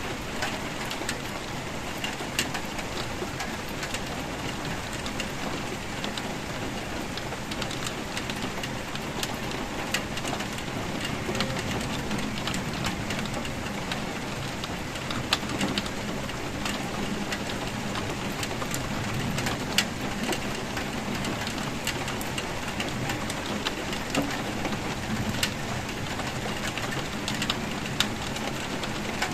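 Steady rainfall with scattered individual drops ticking sharply on a hard surface.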